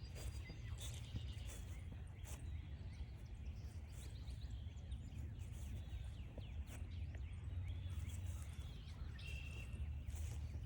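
A dense outdoor chorus of many overlapping high, quick chirps, with a short steady high whistle about nine seconds in, over a low steady rumble and faint crunching footsteps on the trail.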